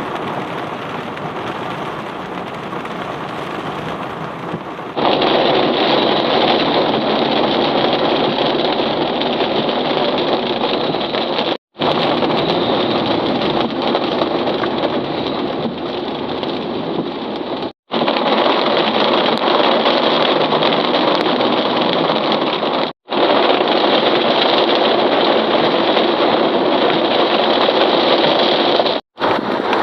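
Heavy rain falling, a dense steady hiss, broken by a few sudden short gaps where one stretch of recording cuts to the next.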